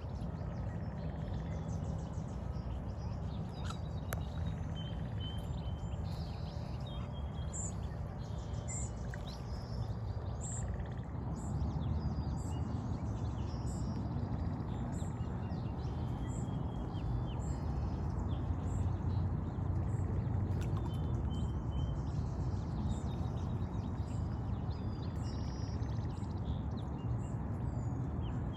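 Small birds chirping in short, repeated high calls through the whole stretch, over a steady low outdoor rumble.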